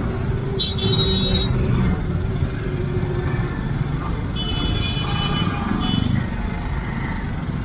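Engine and road noise in heavy road traffic, with two high-pitched vehicle horn honks: one about half a second in lasting about a second, and a longer one about four and a half seconds in.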